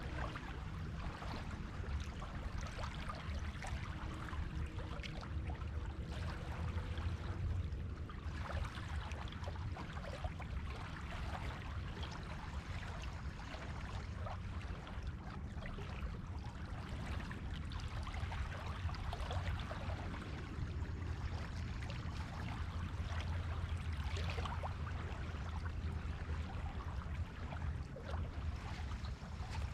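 Small waves washing and lapping on a beach shore: a steady, textured wash with a low rumble underneath, swelling gently now and then.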